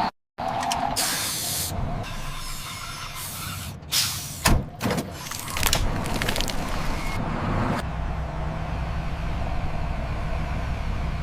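RC construction truck with truck-like sounds: several bursts of air hiss and a few sharp clacks, then from about eight seconds a steady low engine drone.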